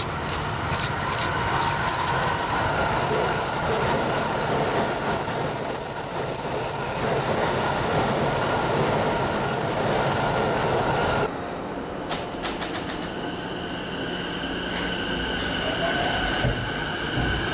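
Electric trains running on the rails, with a steady rumble and thin high wheel squeal, as on a curve. About eleven seconds in the sound cuts off abruptly to a quieter train passage with steady high-pitched squealing tones.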